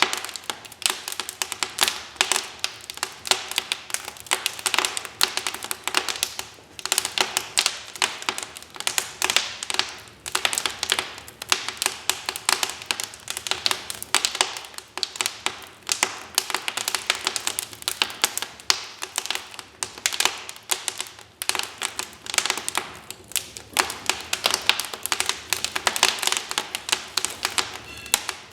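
Wood fire crackling in a fireplace: a dense, irregular run of sharp snaps and pops.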